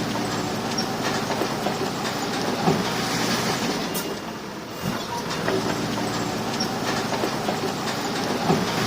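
Crawler bulldozer's diesel engine running, with the steel tracks clanking and rattling. It dips briefly about halfway through, and there are sharper knocks about a third of the way in and near the end.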